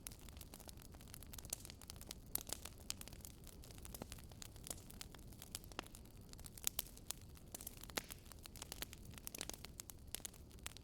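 Campfire burning: wood crackling and popping in frequent, irregular sharp snaps over a faint low hiss of flame.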